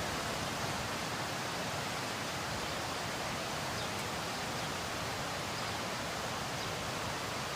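Steady, even rushing noise of water, as from heavy rain or fast-flowing floodwater.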